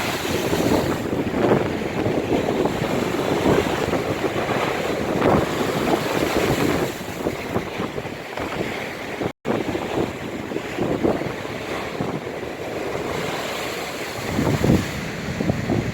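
Big storm waves breaking and surging on the shore, with strong wind buffeting the microphone. The sound cuts out for an instant about nine seconds in.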